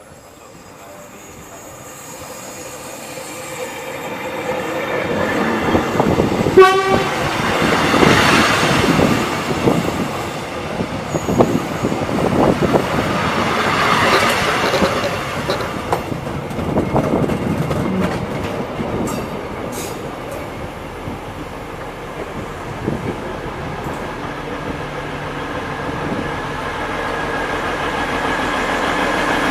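Prameks diesel multiple-unit commuter train approaching and passing close at track level: a rising rumble, a short horn blast about seven seconds in, then the wheels clicking over rail joints as the cars roll by, and a steady engine drone near the end.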